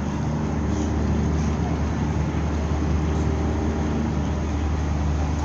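Engine running with a steady low drone and a constant humming pitch.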